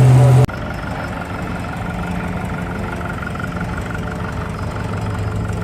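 A loud low steady hum cuts off abruptly about half a second in, followed by an engine running steadily at idle with a faint even pulsing.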